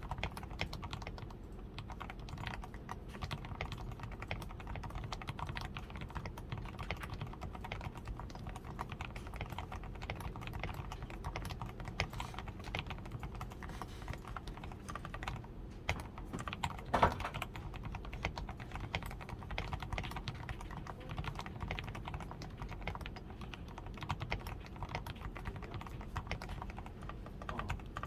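Steady, continuous typing on a DAREU A87 Pro mechanical keyboard, fully lubed with Krytox 105, with a tape-modded PCB, foam-reinforced switches, XDA keycaps and lubed stabilizers. The keystrokes make dense, even clacks, with one louder keystroke about 17 seconds in.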